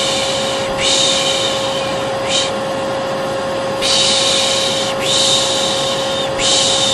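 A voice making the Turkish 'pış pış' shushing sound, a long 'shhh' of about a second repeated over and over with short breaks and one brief shush, over the steady humming whine of a vacuum cleaner motor. This is a baby-soothing white-noise loop.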